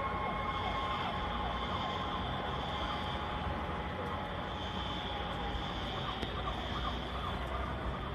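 A siren sounding in the distance, swelling and fading slowly, over a steady low rumble of street noise.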